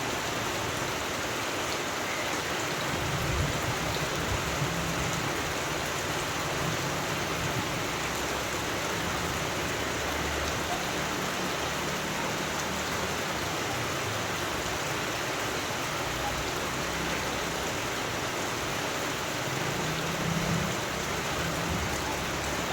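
Steady rain falling, an even hiss without a break, with a low rumble coming and going underneath.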